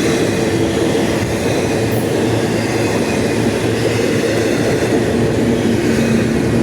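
Freight train cars rolling past close by: a loud, steady rumble of steel wheels on the rails, with a faint ringing tone from the wheels.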